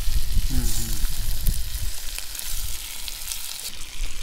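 Rice, meat and vegetables frying in hot oil in a kazan, a steady sizzle. There is a low rumble in the first two seconds and a brief voice sound about half a second in.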